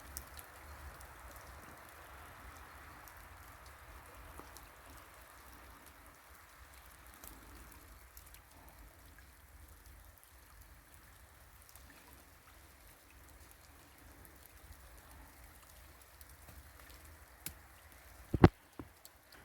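Faint, scattered drips and ticks of thawing snow falling from trees, with one sharper click near the end.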